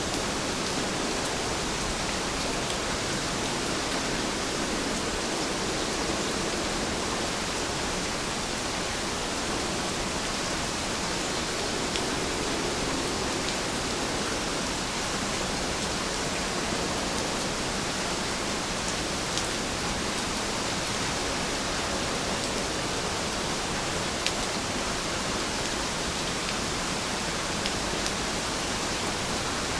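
Heavy rain falling, a steady even hiss with a few faint drop ticks here and there.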